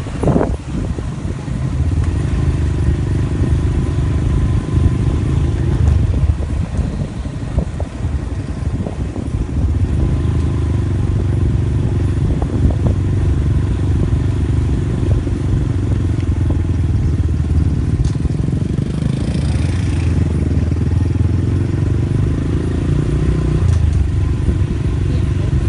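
A vehicle engine running steadily while driving along, with a loud low rumble that rises and falls a little throughout.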